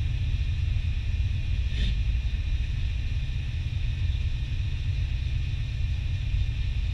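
Turbocharged 4.8-litre LS V8 idling steadily, heard from inside the cabin, with a single short click about two seconds in.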